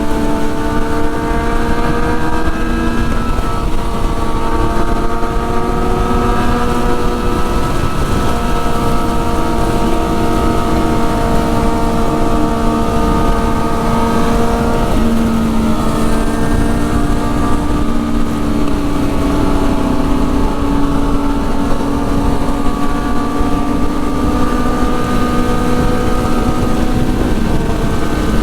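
Superbike engine running at a steady cruise, its pitch shifting up or down to a new level several times, under a heavy low rumble of wind on the microphone.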